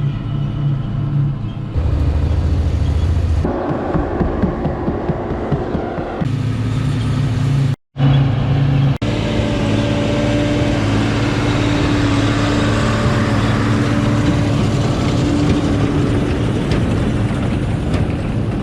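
Heavy farm machinery engines running steadily with a low hum, heard as a series of short clips that change abruptly several times and drop out briefly about eight seconds in.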